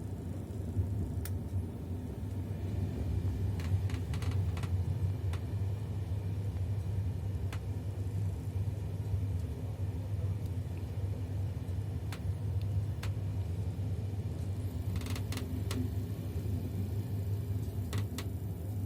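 Passenger train running, a steady low rumble with scattered sharp clicks and rattles, heard from on board.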